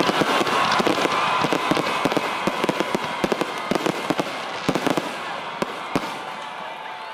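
Fireworks crackling: a dense spray of small pops for the first couple of seconds thins out into scattered sharp cracks and fades away toward the end.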